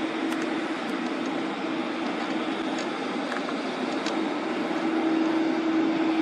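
Jet engines of an Airbus KC-30B tanker running steadily, a broad, even noise with a steady low hum, growing a little louder near the end.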